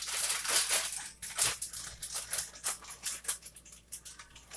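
Tostitos Scoops tortilla chips crackling and crunching: a dense crackle for about the first second, then a run of short, irregular crunches.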